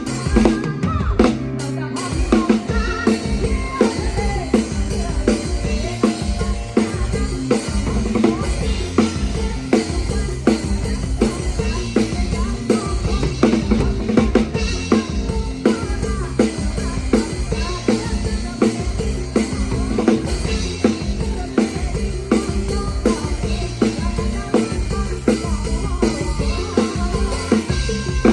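PDP drum kit played live with a band, the kick drum, snare and rimshots driving a steady beat in front of the other instruments.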